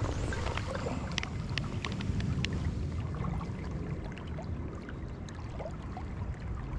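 River water flowing steadily, with a few faint ticks over it.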